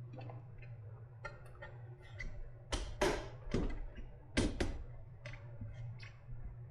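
Tools and parts clicking and knocking against the battery pack's casing while it is being taken apart: a run of sharp clicks, with a few louder knocks near the middle, over a steady low hum.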